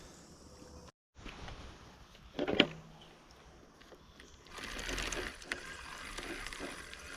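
Fishing reel making a fast run of fine mechanical ticks from about halfway on, as a rod picks up a bite. A brief loud knock comes a little before it.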